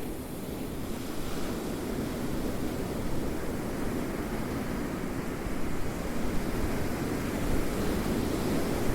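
Ocean waves rolling in: a steady surf rush that swells gradually louder over several seconds.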